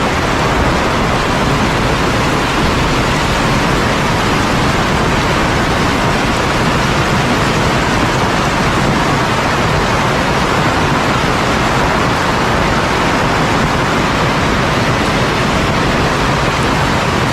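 Heavy rain pouring steadily, a loud, even downpour with no let-up.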